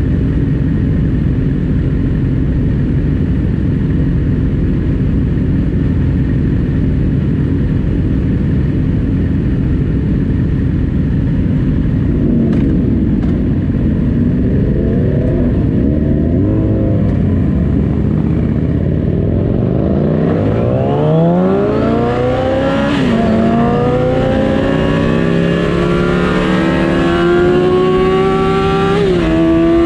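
Onboard sound of a 2007 Yamaha R6's inline-four engine with wind noise: a steady low rumble at first, then the engine note rises and falls from about twelve seconds in. Near the end it accelerates hard through the gears in several rising sweeps, each upshift dropping the pitch before it climbs again.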